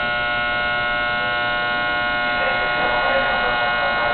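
Steady, many-toned electrical buzz from under the floor of a JR West 221 series electric train: an abnormal noise, which the uploader puts down to motor car MoHa 220-1. Faint voices rise briefly in the middle.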